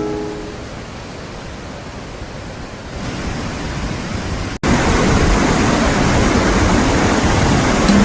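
Waterfall water rushing in a steady roar of noise, which cuts off for an instant a little past halfway and comes back louder.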